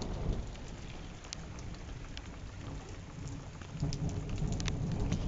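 Heavy monsoon rain pouring, with many single drops splashing close by. A low rumble of thunder grows near the end.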